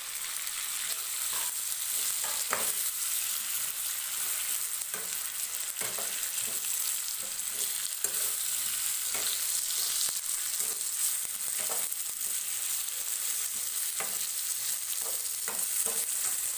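Broiler chicken and potato pieces sizzling as they fry in a pan, with a steel ladle stirring and scraping against the pan in short strokes every second or so.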